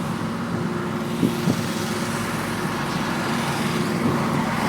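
Steady hum of a car engine running, with a couple of light clicks about a second and a half in.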